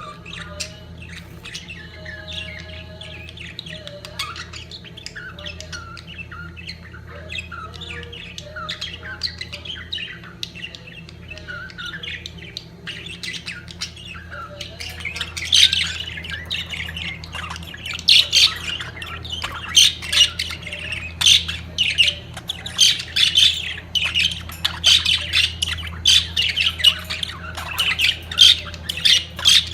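Budgerigars in breeding season chattering and warbling, softer at first; about halfway through the calls turn louder, a dense run of sharp, short squawks and chirps.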